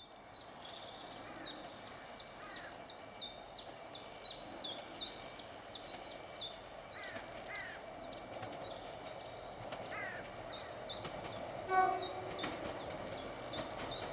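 A bird sings a quick run of short, high, falling notes, about three a second, over a steady low rumble of an approaching train. About twelve seconds in comes a short single-pitched horn blast, the loudest sound.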